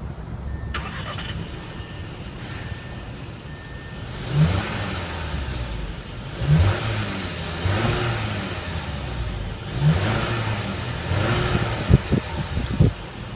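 Audi 1.8-litre TFSI turbocharged four-cylinder engine idling, then blipped in several quick revs that rise and fall back to idle. Two sharp knocks near the end.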